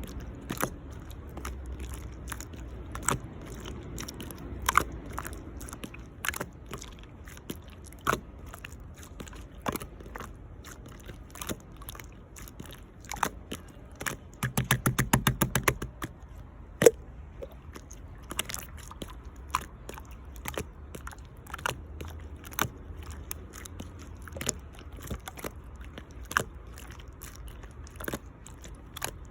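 Clear slime being squished and pressed by hand, making irregular sticky clicks and pops, with a quick run of rapid crackling pops about halfway through.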